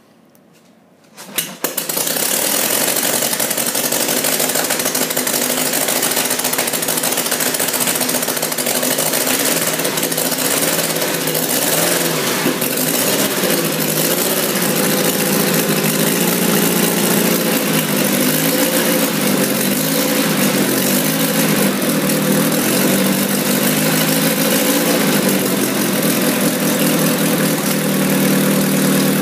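Militaire engine starting: a couple of brief sputters, then it catches about two seconds in and keeps running, its speed wavering a little before settling into a steady idle near the end.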